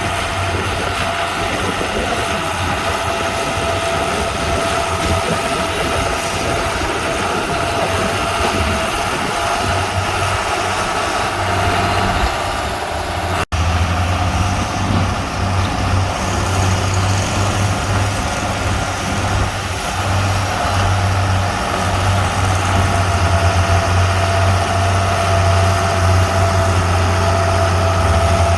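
Heavy earthmoving machine's diesel engine running steadily, with a deep drone and a steady higher tone over it. The sound drops out for an instant about halfway through, then picks up again.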